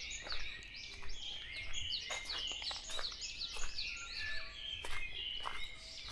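Forest morning chorus of many songbirds calling at once: dense, overlapping quick chirps and short down-slurred notes from birds in several directions, over a faint low rumble.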